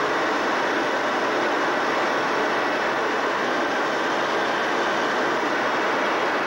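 Steady cabin noise of an E-3D Sentry AWACS in flight: an even rush of engine and airflow noise that does not change.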